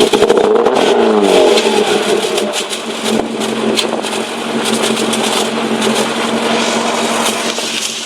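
Ford Capri with a Sportex performance exhaust, revving with the pitch rising and falling in the first second or so, then running on more steadily.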